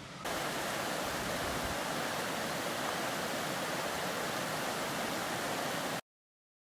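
Waterfall rushing steadily. It gets suddenly louder just after the start and cuts off abruptly about six seconds in.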